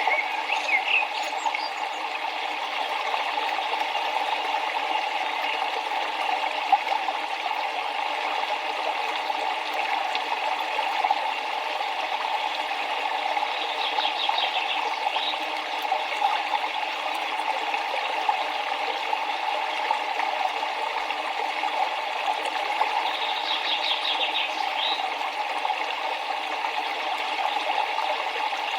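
River water flowing steadily, with a bird chirping in short quick trills now and then, most clearly about halfway through and again some ten seconds later.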